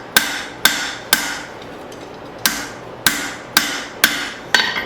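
Hammer blows on leaf-spring steel at the anvil while forging, about two a second with a short ringing tail after each; the strikes pause for about a second after the first three, then go on.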